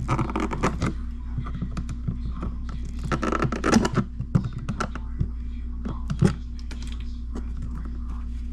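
Electrical wires being handled and twisted together with lineman's pliers: a run of small clicks and scrapes, busiest about a second in and again around three to four seconds in, over a steady low hum.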